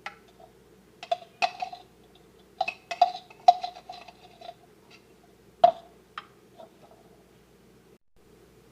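Kitchen utensil knocking and clinking against a dish, a dozen or so irregular knocks, some with a short ringing note. The knocks come in clusters, with a last few light taps about six seconds in.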